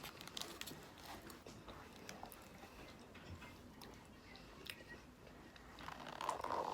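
A person chewing food close to the microphone: quiet mouth clicks and wet chewing, with a louder crunching bite about six seconds in.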